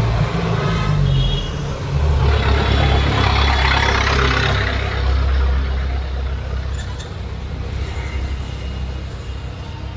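Motor vehicle noise: a steady low engine rumble, with a louder rushing swell from about two to five seconds in that then eases off.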